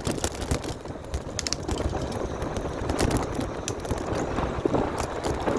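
Bicycle rattling over a bumpy path while coasting downhill, with many sharp clicks and knocks from the jolts. Wind rumbles on the microphone.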